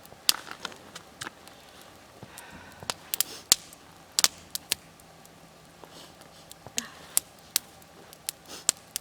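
Wood campfire crackling, with irregular sharp pops and snaps, several of them loud.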